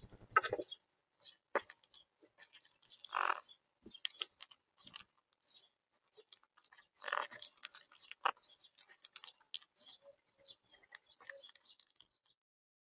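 Monk parakeets cracking sunflower seeds: irregular small crunches and clicks of shells, with louder, longer bursts about three and seven seconds in and a sharp crack soon after the second.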